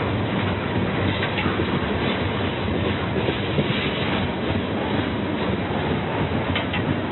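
Freight train rolling past: a steady rumble of wheels on rail, with a few short clicks about a second in and near the end.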